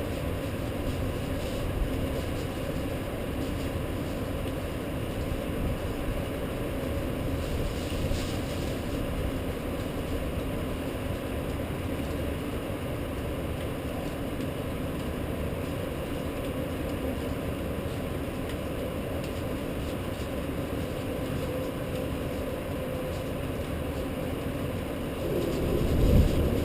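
Steady low rumbling noise of a rainstorm over a city, with a short, louder low rumble about a second before the end.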